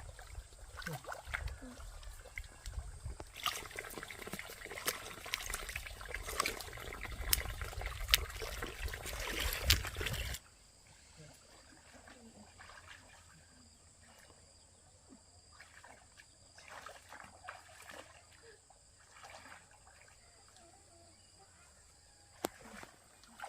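Water trickling and splashing, with sharp knocks, cutting off abruptly about ten seconds in to a much quieter stretch of faint scattered clicks.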